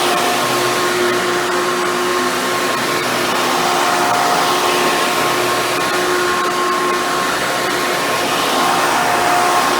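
Hoover bagless twin chamber upright vacuum cleaner running steadily, its motor noise carrying a few steady whining tones that come and go slightly as it is worked.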